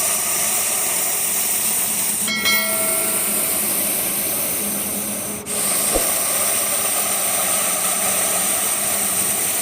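Russell's viper hissing, loud and continuous, a steady breathy hiss that could be taken for a pressure cooker. It breaks off briefly about two seconds in and again about five and a half seconds in, as the snake draws breath.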